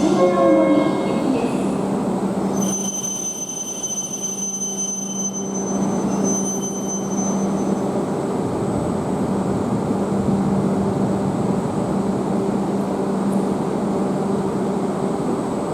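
Tohoku Shinkansen train running along the platform: a steady rushing noise over a constant low hum, with a thin high whine for a few seconds early on.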